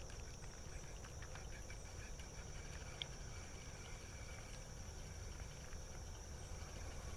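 Steady, high-pitched drone of insects in the creekside woods, with a single faint click about three seconds in.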